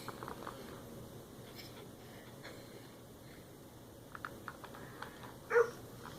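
Mostly quiet, with faint scratching and a few light taps, then one short high whine about five and a half seconds in.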